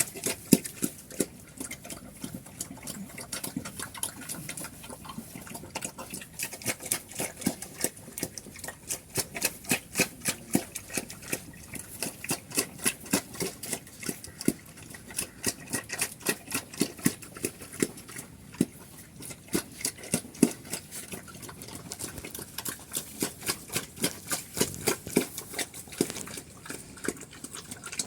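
Black pigs feeding: a steady, irregular run of small crunching clicks, several a second, from chewing and munching.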